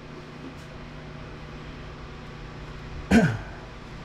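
Steady low background hum with one loud clunk about three seconds in, like a hard object knocked or set down.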